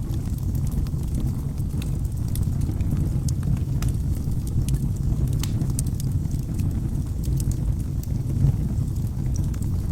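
Wood fire burning in a fireplace: steady low flame noise with frequent small, irregular crackles and pops from the burning logs.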